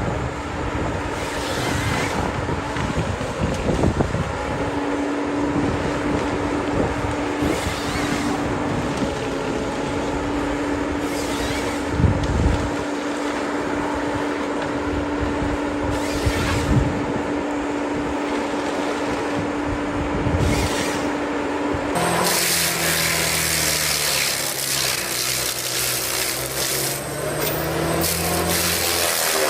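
Engines of heavy logging machinery running. About 22 seconds in it changes suddenly to a single engine running steadily at a low pitch.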